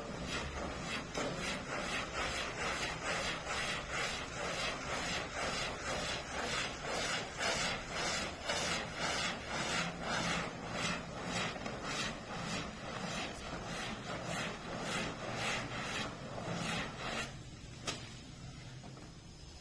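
Carpet pile being scrubbed by hand in quick, even strokes, about two a second, that stop shortly before the end.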